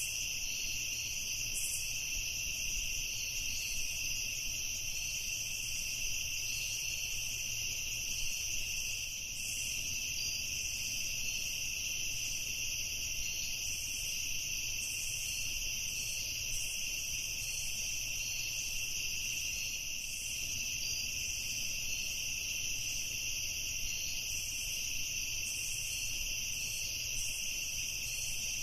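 Evening insect chorus: a steady, high-pitched trilling at two pitches, with a faster, evenly pulsing chirp layered above it.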